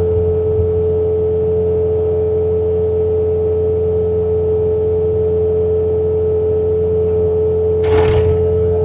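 Bobcat T66 track loader's diesel engine running steadily under load while driving a snow blower attachment, heard from inside the cab, with a constant low hum and a steady high whine. A brief rushing noise about eight seconds in.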